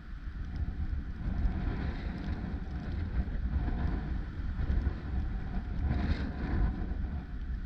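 Wind buffeting the microphone during a ride, with a low rumble of engine and road noise underneath.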